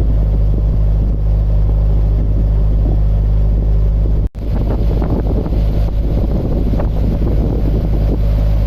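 Narrowboat diesel engine running steadily under way, with wind buffeting the microphone. The sound breaks off for a moment about halfway through, then comes back rougher and gustier.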